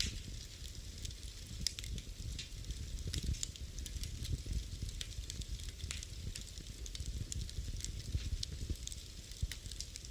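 Wood fire burning in a fireplace: a steady low rumble of flames with many irregular sharp crackles and pops, several a second.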